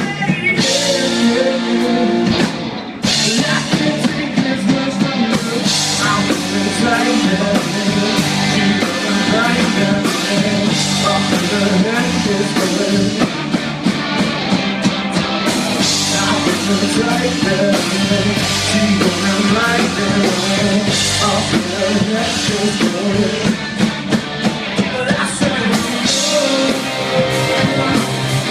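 Rock band playing live: drum kit and guitars with singing, loud and continuous, with a brief drop in level about three seconds in.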